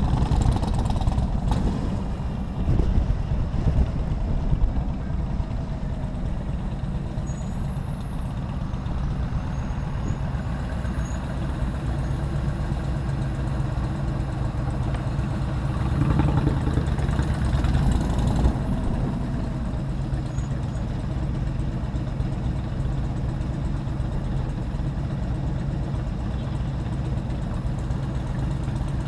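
Motorcycle engine running steadily while riding in city traffic, with a louder swell of traffic noise about 16 seconds in.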